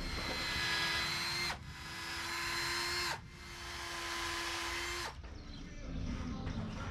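Electric drill running in three steady bursts of about a second and a half each, with brief pauses between, turning a wooden spar on a rig so it can be varnished.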